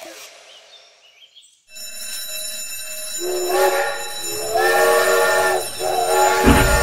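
Toy steam train's electronic sound effects: a bell starts ringing about two seconds in, followed by three held multi-note whistle blasts. A low rumble comes in near the end.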